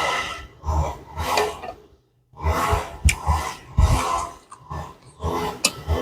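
Close-miked eating noises: chewing and mouth sounds come in irregular bursts, roughly one or two a second, each with a low thump.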